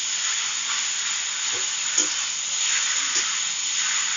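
Penne pasta and vegetables sizzling in a metal kadai over high flame, a steady hiss, while a spoon stirs them. The spoon clicks sharply against the pan twice in the second half.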